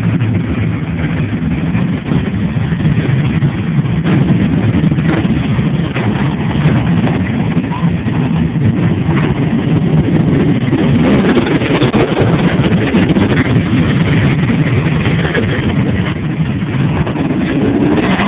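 Several Harley-Davidson V-twin motorcycle engines running loudly without a break, with some revving.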